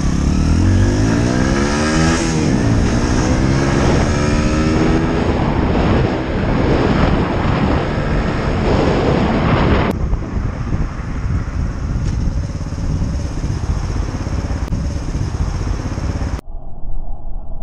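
Motorcycle engine accelerating, its pitch climbing and dropping back several times with gear changes in the first few seconds, then a steady rushing noise of riding. The sound changes abruptly about ten seconds in and cuts off suddenly near the end.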